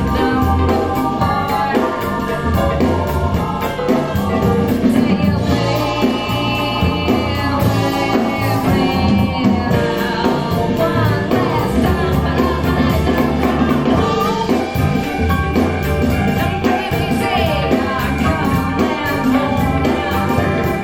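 Music with singing, played through a pair of KEF LS50 two-way coaxial bookshelf speakers with aluminium-dome tweeters.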